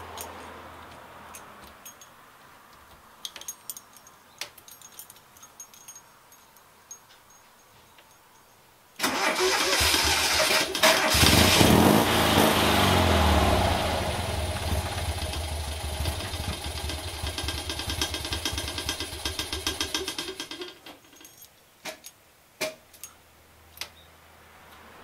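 Toyota Sports 800's air-cooled flat-twin engine firing up suddenly about a third of the way in, running loudly for a few seconds, then sagging and dying out around eleven seconds later: it will not settle into an idle. Faint clicks before it starts and after it stops.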